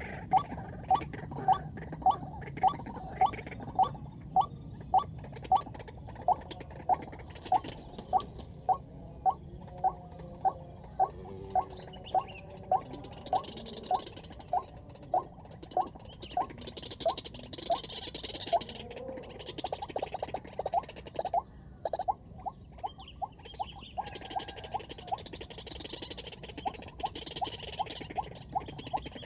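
White-breasted waterhen calling: a short, sharp note repeated in a steady run nearly twice a second, breaking off briefly a little past two-thirds of the way through before resuming more weakly.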